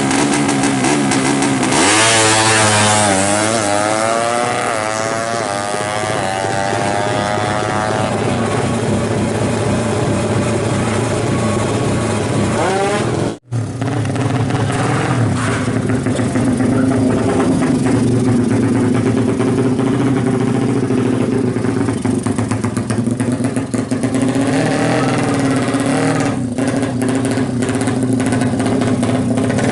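Suzuki Satria FU single-cylinder four-stroke engine, bored up to 200 cc with a twin exhaust, running on a drag bike. It revs up sharply about two seconds in and falls back over several seconds, then keeps running with smaller changes in revs. The sound drops out for a moment about halfway.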